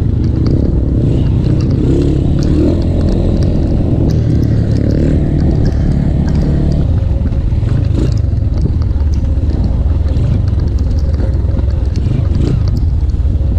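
Honda Win 100's single-cylinder two-stroke engine running steadily as the bike rides over rough trail ground, with scattered short knocks and rattles from the bike.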